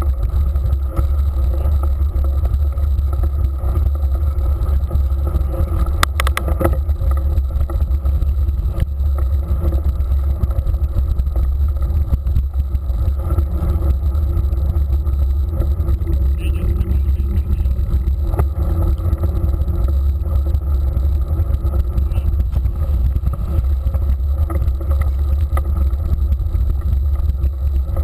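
Steady low rumble of wind buffeting and rolling noise on a camera microphone carried on a mountain bike, with a brief rattle about six seconds in.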